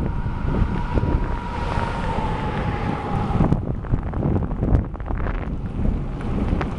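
Wind buffeting the microphone of a camera on a moving bicycle, a heavy low rumble, with scattered small knocks. A thin steady whine drifts slightly down in pitch and stops about three and a half seconds in.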